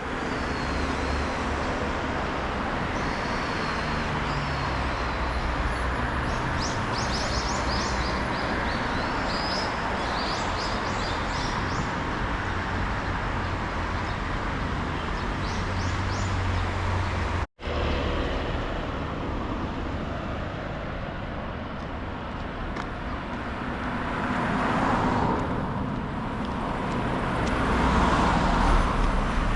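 Steady road and engine noise from a Mercedes-Benz car being driven, with short high chirps from about six to sixteen seconds in. The sound drops out for an instant about halfway through.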